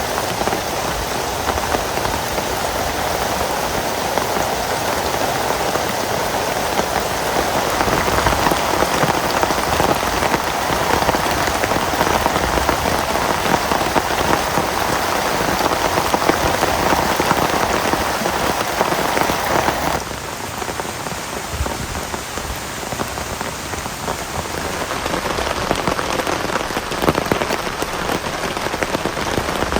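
Heavy rain falling in a dense, steady patter. About twenty seconds in, the sound changes abruptly and drops a little in level.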